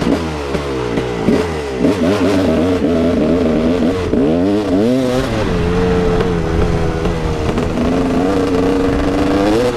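KTM 380 EXC two-stroke dirt bike engine being ridden hard, its pitch rising and falling over and over as the throttle is worked and gears change, then holding steadier near the end.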